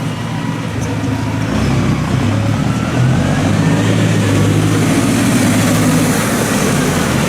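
Tractor engine running close by, growing louder about a second and a half in and then holding a steady note.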